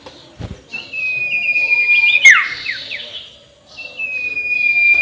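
Cackling call of a sirtu owl: a long high whistle that slowly falls, then breaks into a quick run of sharply falling notes, and starts again about a second and a half later.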